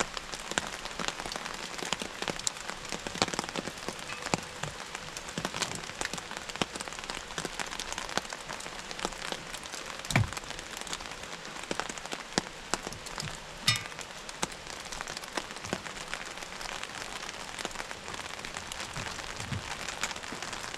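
Steady rain falling, many individual drops clicking on a nearby surface, with a few louder knocks about 10 and 14 seconds in.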